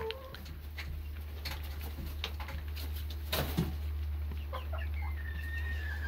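Young chickens clucking and calling, with a few scattered clicks and knocks over a steady low hum; near the end one bird holds a long, level high-pitched peep.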